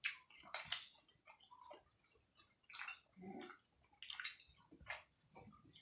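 Close-miked wet eating sounds of momo dumplings being chewed and slurped, in short irregular bursts.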